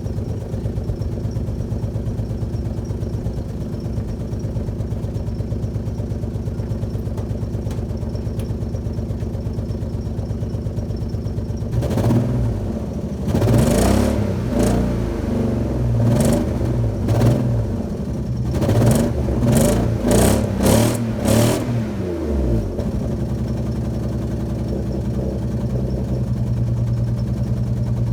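Alfa Romeo GTV V6 engine idling roughly, then revved in a string of quick throttle blips for about ten seconds before settling back to idle. It has been left parked for a few months, and the owner suspects a misfire.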